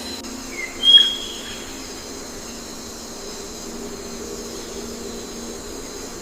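A short bird call about a second in, a couple of quick chirps rising to a brief high note, over a steady background hum and hiss.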